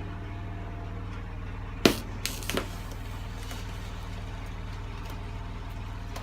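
A steady low hum throughout, with a few sharp clicks about two seconds in, the first the loudest.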